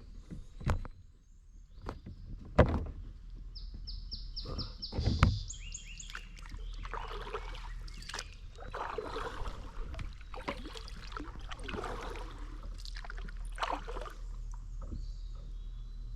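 Kayak paddling: paddle blades dipping and splashing in the river, with several sharp knocks of the paddle against the kayak in the first few seconds. A quick run of high chirps sounds about four seconds in.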